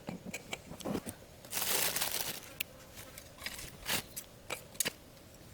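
Crinkly rustling and handling noise with scattered sharp clicks and taps, and a longer rustle lasting about a second from a second and a half in.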